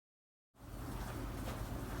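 A steady low hum with a hiss over it starts abruptly about half a second in, out of dead silence, and holds even.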